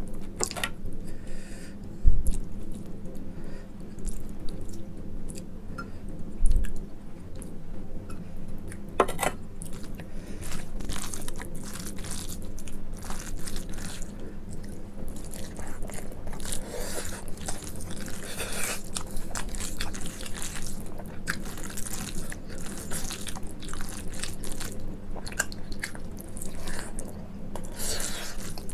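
Close-up chewing of a mouthful of rice with mashed brinjal bhorta, eaten by hand, with many short wet mouth clicks over a steady low hum. Two low thumps, about two and six seconds in, are the loudest sounds.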